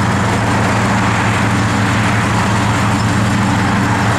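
1971 Pontiac LeMans Sport's 400 cubic-inch V8 idling steadily through its dual exhaust.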